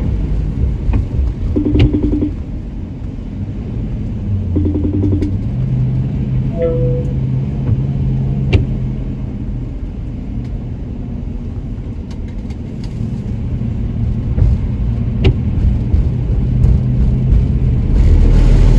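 Car driving on a snow-covered road, heard from inside the cabin: a steady low engine and road rumble, with a few sharp clicks and short buzzy pulses early on, getting louder near the end.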